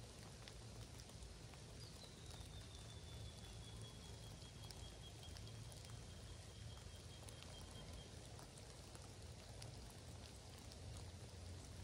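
Faint drizzle in mountain cloud: a soft, even hiss with scattered light drips ticking. A faint thin high tone slides slowly down in pitch for several seconds, starting about two seconds in.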